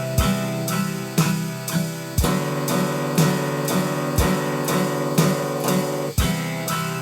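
Music: acoustic guitar strummed in a steady rhythm, about two strums a second, with a deeper low beat every few seconds.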